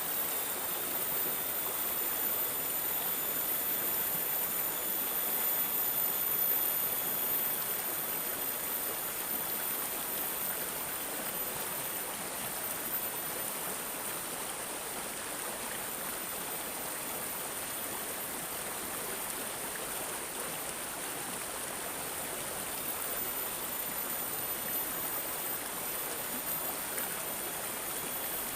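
Running water babbling and gurgling steadily, as in a small stream.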